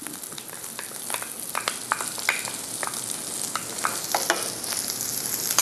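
Garlic slices and chili sizzling steadily in olive oil in a small pan as diced onion is tipped in, with scattered taps and scrapes of a wooden spatula.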